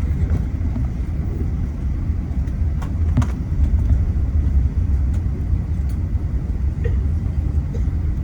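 Steady low rumble in the cabin of an Airbus A380 rolling on the ground after landing, with a few faint clicks.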